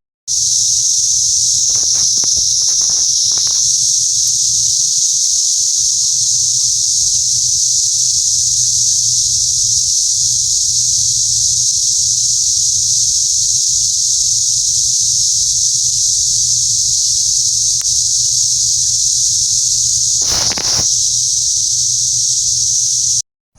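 Chorus of cicadas: a steady, loud, high-pitched buzzing drone. A few faint knocks come about two to three seconds in, and a brief rustle about twenty seconds in.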